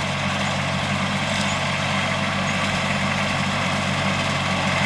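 Tractor engine running at a steady speed while mowing, an even drone that does not change.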